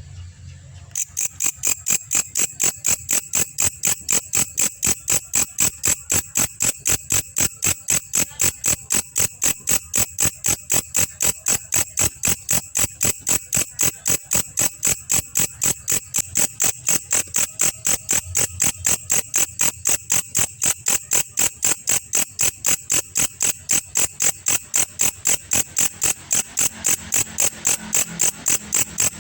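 Belalang kecek (a singing katydid) calling: a steady, regular train of sharp, high chirps, about three a second, starting about a second in.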